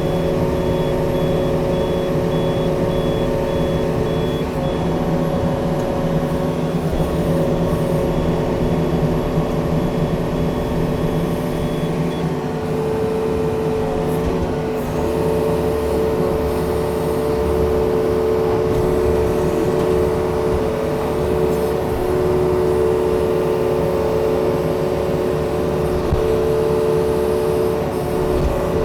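Yanmar excavator's diesel engine running steadily under work, with steady whining tones that shift partway through.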